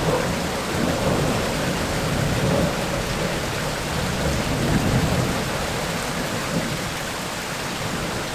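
Heavy tropical rain falling steadily with low rolling thunder. The rumble eases off over the last few seconds.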